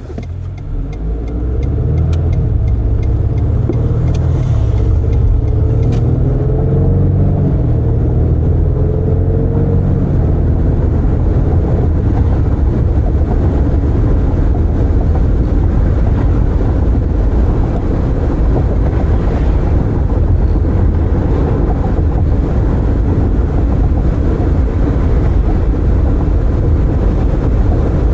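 A car pulling away and accelerating, its engine note rising for about the first ten seconds, then cruising with steady tyre, road and wind noise coming in through open windows.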